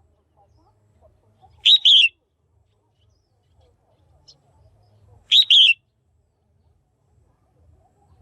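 Female red-whiskered bulbul calling, a call used to stimulate male bulbuls: two short, loud chirps, each of two quick notes, about three and a half seconds apart.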